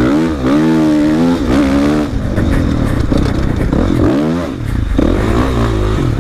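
Dirt bike engine revving up and falling back several times while riding, its pitch rising and dropping with the throttle.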